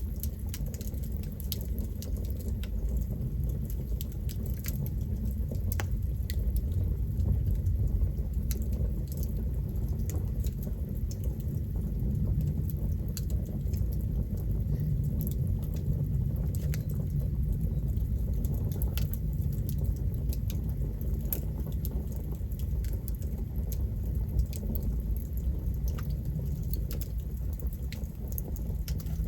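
Campfire burning: wood crackling with frequent small, sharp pops scattered irregularly over a steady low rumble.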